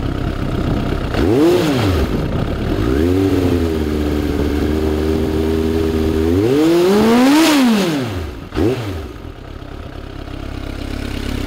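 Suzuki GSF750's oil-cooled inline-four revved through a Tech Surf full exhaust system with a modified silencer. First a quick blip, then a rev held steady for about three seconds, then a higher rev that peaks and drops away, then one last quick blip before it settles back to idle.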